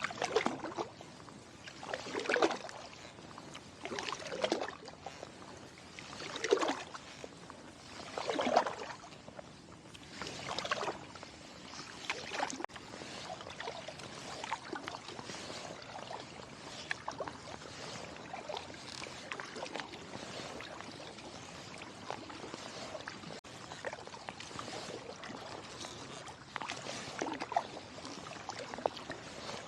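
Kayak paddle strokes in river water, one about every two seconds for the first ten seconds. Then the boat glides with water trickling and dripping off the paddle, and a few strokes resume near the end.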